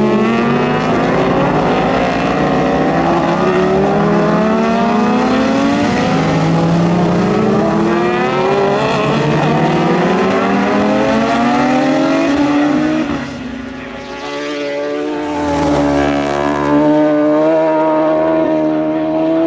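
Superbike racing motorcycle engines at full throttle, the pitch climbing and dropping again and again as the riders shift up through the gears. About 13 seconds in the sound dips briefly, then settles into a steady high note.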